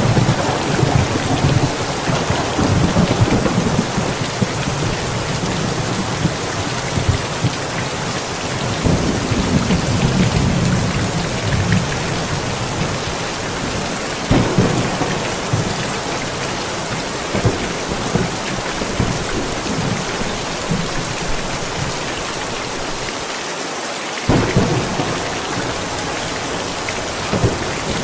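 Steady rain falling with thunder rolling through it: long low rumbles in the first few seconds and again around ten seconds in, and sharper claps about fourteen and twenty-four seconds in.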